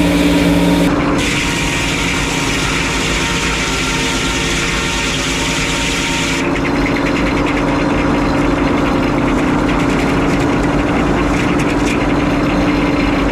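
Frick 01-C circular sawmill running with a steady mechanical hum. About six seconds in, the higher hiss drops away and a fast rattle remains over the hum.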